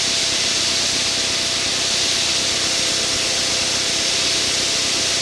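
Steady aircraft cockpit noise in flight: an even hiss of engine and airflow with a faint steady hum underneath.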